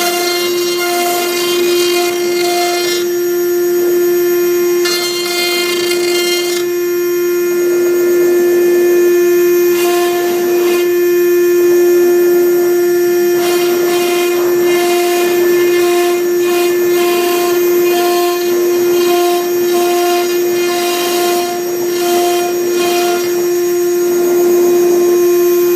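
CNC router at work, engraving MDF with a V-bit: the spindle whines steadily at one pitch while the stepper motors' tones switch on and off and change pitch every second or two as the axes move.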